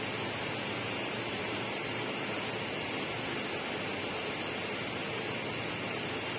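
Steady, unchanging rushing noise with a brighter hiss in the upper range, with no individual events in it.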